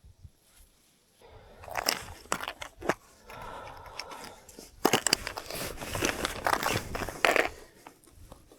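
Irregular crunching and rustling, starting about a second in, with sharp crackles among it.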